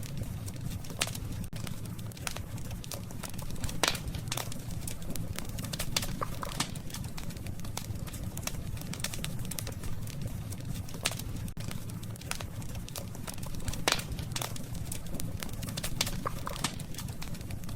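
Burning wood in a campfire crackling and popping in sharp, irregular snaps, two louder pops about 4 and 14 seconds in, over a steady low rumble of the flames.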